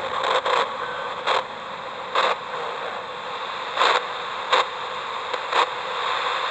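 Ghost-hunting spirit box (a radio scanner) giving out a steady static hiss, broken by about eight short bursts of noise at uneven intervals, with no voice coming through.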